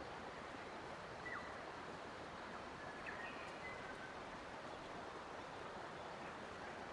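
Steady rush of flowing water in a forest, with a few faint short bird calls about a second in and again around three to four seconds in.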